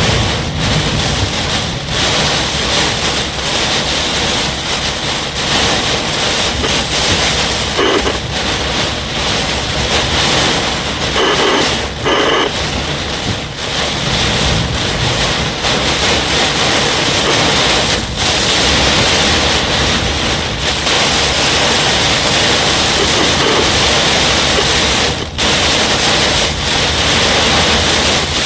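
Heavy thunderstorm rain and strong wind, a loud steady rush with no letup.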